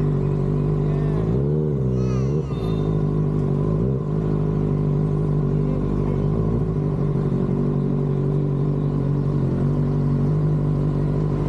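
Motorcycle engine running steadily while riding, its pitch dipping and coming back up about a second and a half in.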